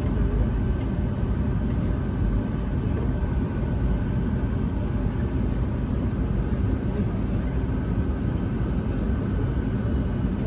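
Steady jet-engine and airflow noise of a Boeing 757-200 heard from inside the cabin: a constant low rumble with a faint steady whine above it.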